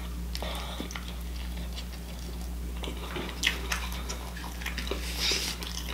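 A person chewing a bite of burger close to the microphone, with scattered soft mouth clicks over a steady low hum.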